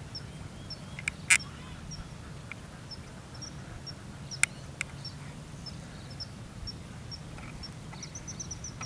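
Swiftlets calling in many short, high chirps one after another, with a few sharp clicks, over a steady low hum.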